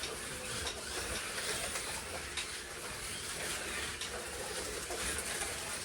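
Model slot cars lapping a routed track: a steady rattling hiss from the small electric motors, tyres and guide blades running in the slots, with faint scattered clicks.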